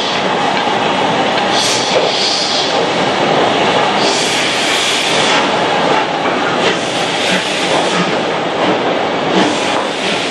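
Steam locomotive 45212 and its train running on the line: a steady rumble and rail clatter, with short spells of higher hiss a few times.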